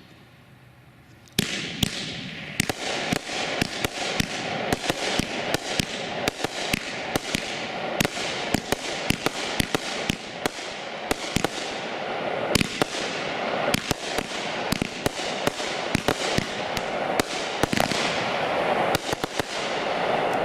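Shogun 'Great Nation' consumer fireworks cake firing, starting about a second and a half in: a rapid string of sharp shell bursts, about two a second, over a continuous crackling hiss.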